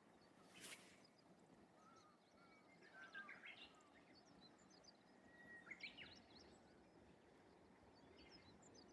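Faint birdsong over a low steady background hiss: a Japanese bush warbler sings a held whistle followed by quick rising notes about five to six seconds in, with an earlier shorter phrase and small high chirps from other birds. A single sharp click sounds just under a second in.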